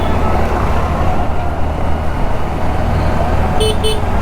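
Steady road, engine and wind rumble from riding a Honda Activa scooter through city traffic. Near the end a vehicle horn gives two short beeps.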